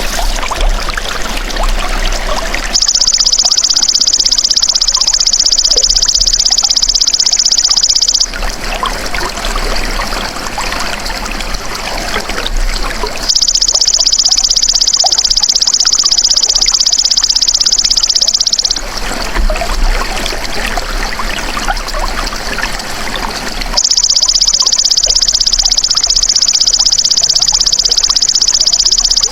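Belalang emas insect calling in three long, high buzzing trills of about five seconds each, starting about 3, 13 and 24 seconds in, over steady trickling stream water.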